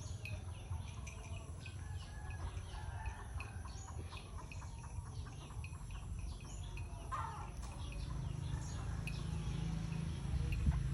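Birds chirping over and over in short calls, with one louder call about seven seconds in, over a steady low rumble.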